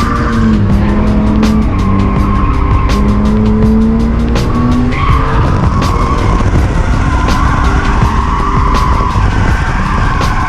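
Barra-swapped R31 Skyline drifting: tyres squealing continuously over the engine running hard, with music playing over it.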